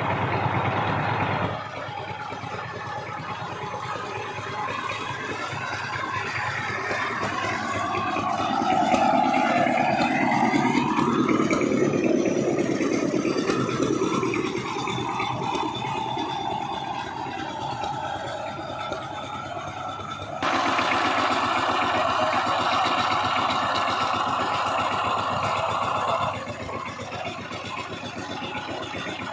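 Power tiller engine running, its pitch rising and falling back in the middle, with sudden jumps in loudness near the start, about two-thirds through and shortly after.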